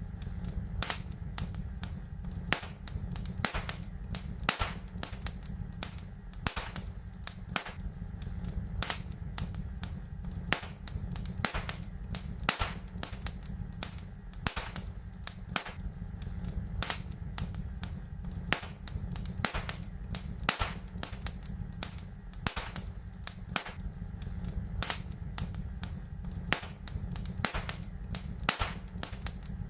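Wood fire in a fireplace crackling: frequent sharp, irregular pops and snaps over a steady low rumble of the burning.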